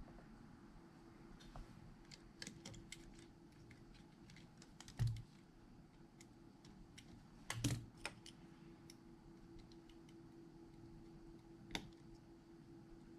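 Scattered light clicks and taps of small tools working on a phone, with two louder knocks about five and seven and a half seconds in, over a faint steady hum.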